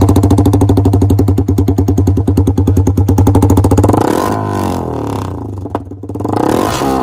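KTM 390 Duke's single-cylinder engine through an aftermarket exhaust, running loud with a steady, rapid pulsing beat. About four seconds in the note drops and turns quieter, falling then rising again in a short rev near the end.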